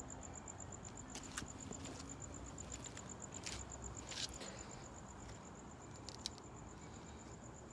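A cricket chirping in a fast, steady run of high pulses, several a second, with a few faint clicks here and there.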